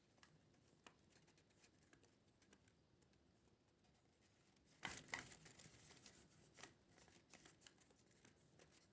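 Faint sounds of paper being handled during crafting: scattered light ticks, with a brief louder rustle about five seconds in.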